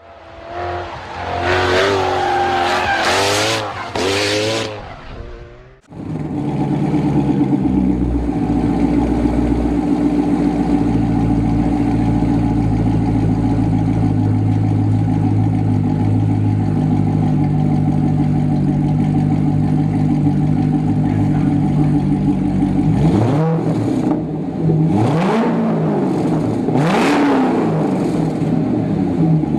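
Corvette C6 Grand Sport's 6.2-litre LS3 V8 through a custom muffler-bypass exhaust with five tips. It is blipped in several quick revs, then idles steadily for about fifteen seconds, then is revved sharply several more times near the end.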